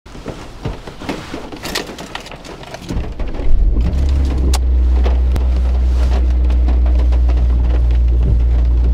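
Scattered clicks and handling rustle, then about three seconds in a car engine starts and settles into a steady low idle.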